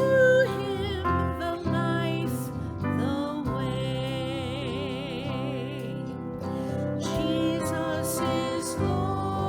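Slow hymn of invitation with a voice singing held notes with vibrato over instrumental accompaniment.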